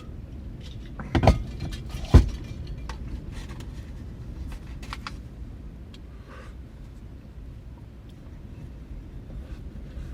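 Two sharp knocks about a second apart over a steady low rumble, followed by scattered small clicks and rustles of something being handled close by.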